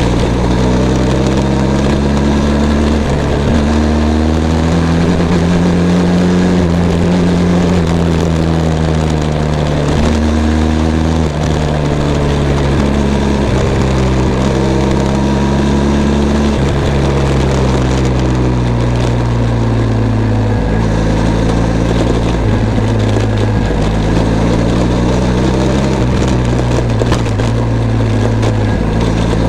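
Benelli TRK 502 X's parallel-twin engine on the move, its note climbing through the gears with several drops in pitch at the shifts, then easing off with the pitch sinking slowly over the second half. A steady rush of wind and road noise lies under it.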